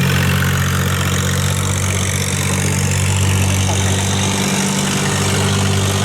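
A boat's diesel engine running steadily, a loud low hum with a strong, even pitch.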